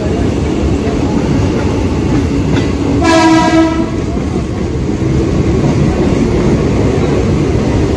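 Mumbai suburban electric local train running, a steady loud rumble of the coach and wheels on the track heard from on board. About three seconds in, a train horn sounds once, a steady high note lasting under a second.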